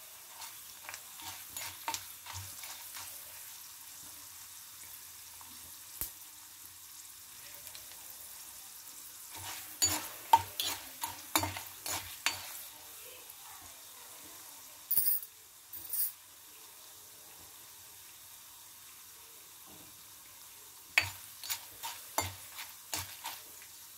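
Dried red chillies, dals and seeds frying in a little oil in a kadai: a faint steady sizzle, fried until the chillies darken and the dals turn brown. A metal spoon stirs and clinks against the pan in spells about ten seconds in and again near the end, with two short sharp hisses midway.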